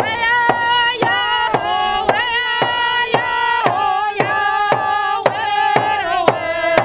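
A voice singing held, wavering notes over a drum struck steadily about twice a second.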